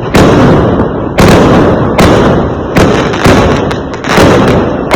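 Fireworks going off in quick succession: about six loud bangs in five seconds, each dying away slowly before the next.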